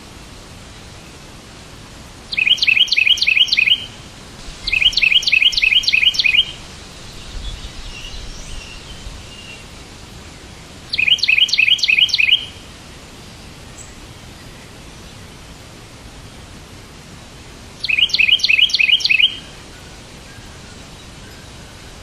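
A songbird singing four short bursts of quickly repeated chirps, each burst about a second and a half long, with fainter chirps between the first bursts. A steady hiss runs underneath.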